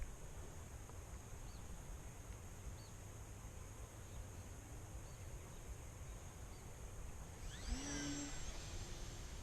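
Wind rumbling on the microphone, with a few faint brief chirps. Near the end, a short whine rises and then holds steady.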